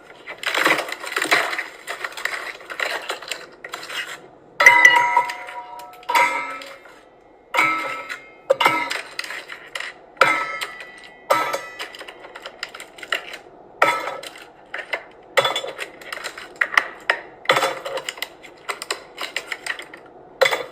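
Ice cubes clattering into a glass: a dozen or so separate clinks and knocks, each with a short ring, the loudest about a third of the way in.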